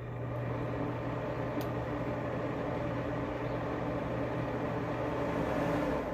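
A small electric machine running steadily with a low hum, switching on just before and winding down about six seconds in.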